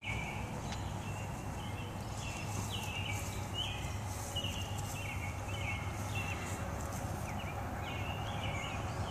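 Small birds chirping in short repeated notes, about two a second, over a low steady rumble, with a few faint clicks.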